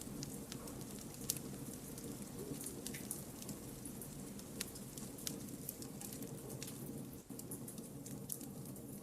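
Wood campfire burning: irregular sharp crackles and pops from the burning logs over a steady low rush of flame, with one louder pop about a second in.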